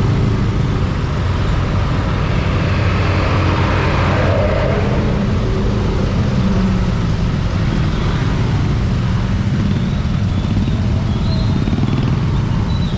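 Riding noise from a motorcycle in traffic: a steady low rumble of engine and wind on the camera microphone, with the surrounding traffic swelling a little around four seconds in.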